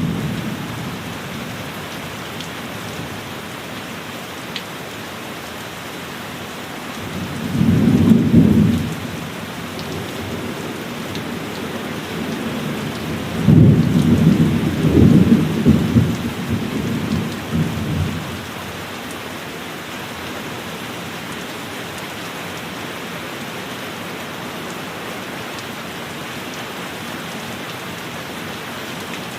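Heavy rain falling steadily, with thunder rumbling over it: the end of one rumble dies away just after the start, a short rumble comes about a quarter of the way in, and a longer rolling one, in several surges, follows about halfway through.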